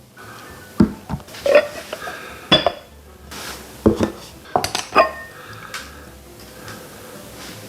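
Dishes and cutlery clinking: about six sharp knocks, several with a brief ring, as tableware is handled and set down.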